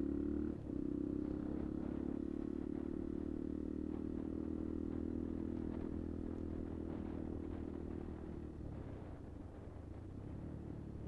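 Kuba Black Cat motorcycle engine running steadily under way, with a brief dip in engine sound about half a second in. The engine note fades and softens after about eight seconds as the rider eases off.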